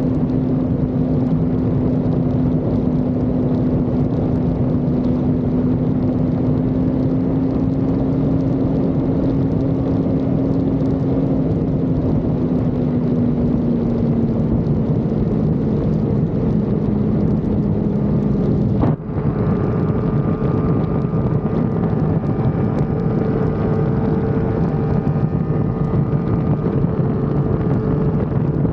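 Sport motorcycle engine running at a steady cruise with wind and road rush on the camera microphone. The engine note eases slightly lower, a brief sharp dropout comes about two-thirds of the way through, and after it the engine holds a steady, higher note.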